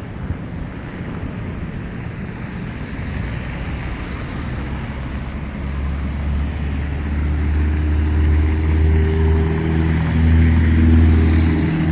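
Outdoor traffic noise, with a motor vehicle's engine running close by from about six seconds in as a steady low hum that grows slowly louder.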